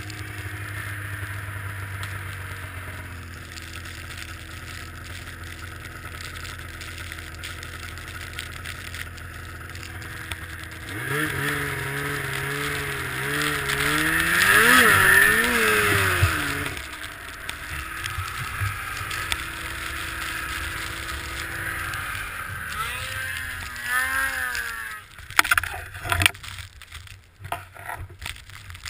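Two-stroke snowmobile engines running. About 11 s in, one revs up loudly, its pitch climbing and falling with the throttle and peaking around 15 s. Another short rev follows near 24 s, then a few sharp knocks near the end.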